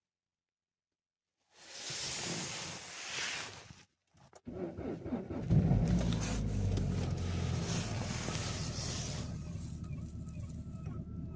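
Vehicle engine cold-started in deep frost at about −29 °C: a noisy stretch, a short pause, then the engine catches about four and a half seconds in, flares up about a second later and settles into a steady, even idle.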